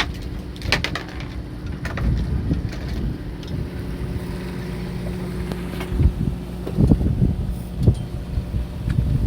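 Steady hum of a fishing boat's machinery, with wind buffeting the microphone. A few light clicks about a second in and several knocks around six to eight seconds in.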